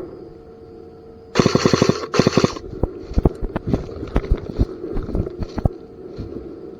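Airsoft gun firing two quick full-auto bursts, a rapid rattle of shots about a second and a half in, followed by scattered sharp clicks.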